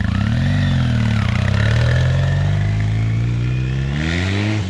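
Motorcycle engine pulling away under throttle. The revs climb, dip about a second in, hold fairly steady, then climb again near the end.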